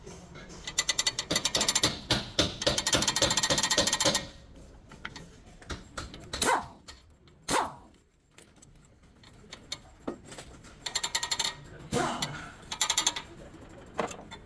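Rapid mechanical clicking in bursts, the longest lasting about three seconds, with two short falling squeaks in between.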